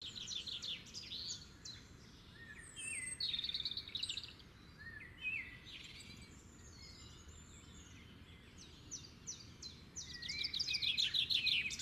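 Small birds singing: a mix of quick chirps, rapid trills and short rising whistles. The trills are loudest a little after three seconds and again near the end.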